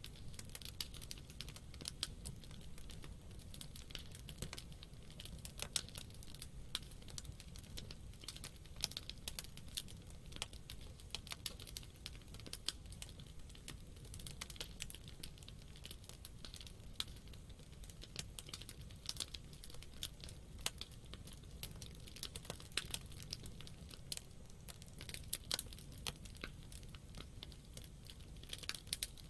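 Campfire wood burning, crackling and popping in dense, irregular sharp snaps over a low steady rumble.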